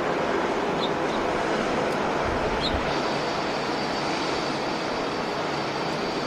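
Steady rush of airliner jet engine noise mixed with wind, with a faint high whine that comes in about halfway. A few faint short chirps sound in the first three seconds.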